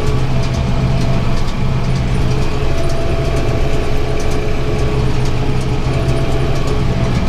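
Tractor engine running steadily under load while pulling a round baler that is picking up hay, heard from inside the tractor cab, with faint ticking from the machinery.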